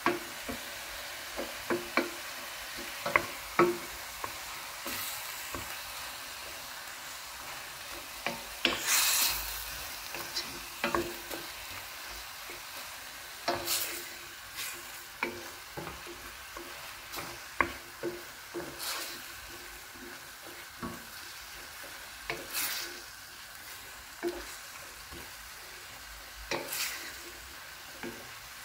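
A utensil stirring food sizzling in a pan: a steady frying hiss with irregular clinks of the utensil against the pan and several longer scrapes.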